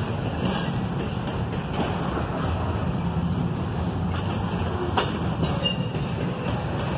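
CSX intermodal freight train's container cars rolling past, wheels on rail making a steady rumble, with one sharp knock about five seconds in.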